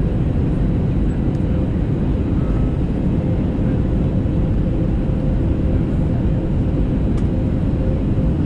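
Airbus A320neo heard from inside the passenger cabin during landing: a steady, loud roar of engines and airflow, with a faint steady hum through it.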